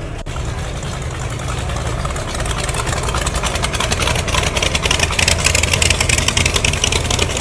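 A car engine running at idle with a steady low hum, joined about two and a half seconds in by a rapid even pulsing that grows louder.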